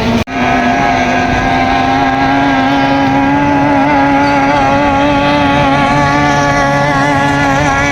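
Racing boat's 30-horsepower outboard motor running hard while being warmed up, its note creeping slowly higher. There is a brief break in the sound just after the start.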